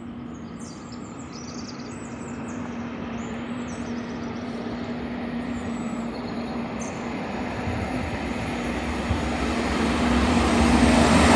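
Great Western Railway Intercity Express Train approaching at speed on the main line, its rail and running noise growing steadily louder as it nears, with a steady hum underneath.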